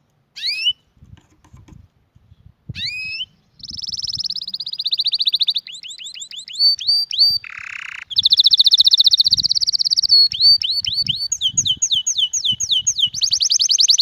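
Domestic canary singing: a couple of sweeping notes, then long, fast rolling trills and strings of quick down-slurred notes, with one short harsh buzzy note about halfway through.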